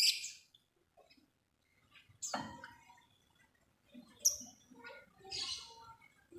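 Lovebird calling in short, sharp chirps and squeaks, a few separate calls about a second or two apart after a brief pause near the start.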